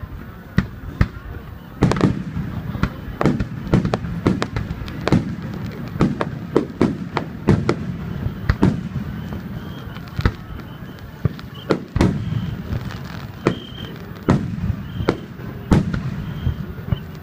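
Aerial fireworks bursting in quick succession: many sharp bangs, often two or three a second, over a continuous low rumble of echoing reports.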